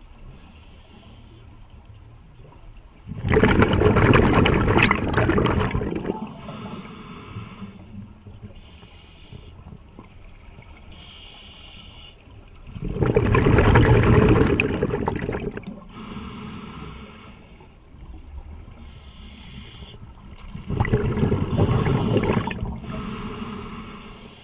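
Scuba diver breathing through a regulator underwater: three long bursts of exhaled bubbles, about eight to nine seconds apart, with fainter inhalation hisses between them.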